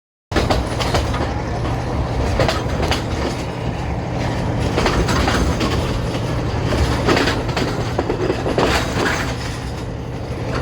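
A diesel multiple unit train running on the line: steady low engine and traction hum with wheels clacking over rail joints at irregular intervals, starting abruptly just after the start.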